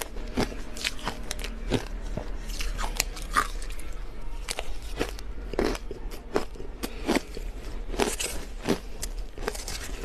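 Crushed ice being bitten and chewed close to the microphone: a steady run of sharp, crisp crunches, several a second.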